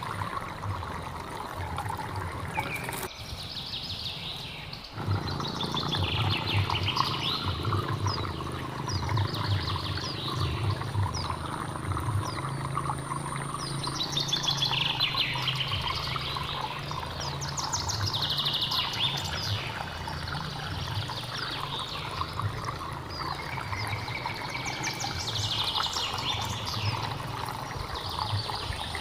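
Flowing water trickling and splashing steadily while birds chirp overhead in repeated bursts of quick, sweeping high notes. The low water sound dips out briefly about three seconds in.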